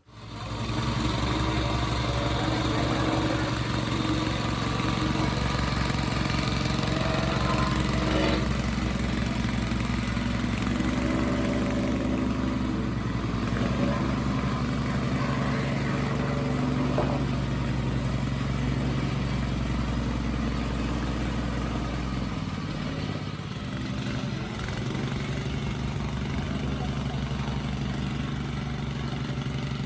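An engine running steadily and loud, with a low hum. About 22 seconds in the hum dips and shifts, then runs on a little quieter.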